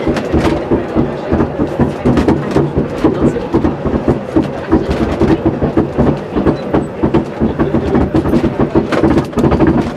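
Electric rack-railway train of the Rhune running, heard from inside the passenger car: a steady running noise with frequent clicks and knocks from the wheels and rack gear.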